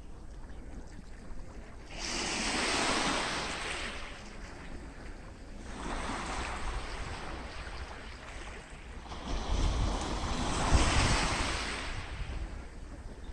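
Sea waves breaking and washing up a beach, in three surges about two, six and ten seconds in, with a low wind rumble on the microphone under the last one.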